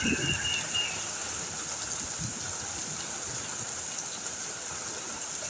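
Heavy rain pouring down steadily, with short low gusts of wind buffeting the microphone, the strongest in the first half-second.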